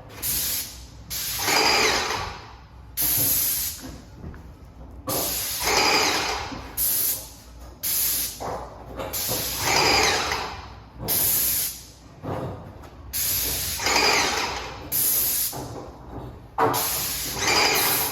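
Repeated hissing bursts, about one every two seconds, each a short, sharp, high hiss followed by a longer, lower rush of air-like noise.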